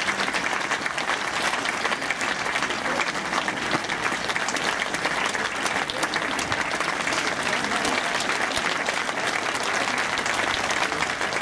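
Tennis crowd applauding the end of a match: dense, steady clapping from many hands that keeps up throughout.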